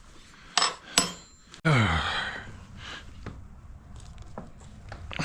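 Metal parts clinking twice as pressure-washer fittings are handled, then a sudden loud sound that slides down in pitch, followed by quieter handling noise with a few light ticks.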